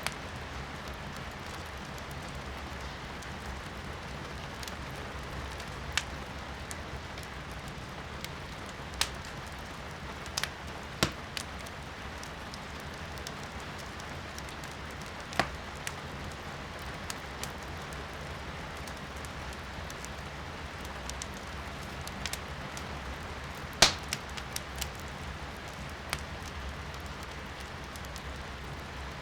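Wood fire in a fireplace crackling, with scattered sharp pops and snaps, the loudest about three-quarters of the way in, over a steady hiss of rain heard from indoors.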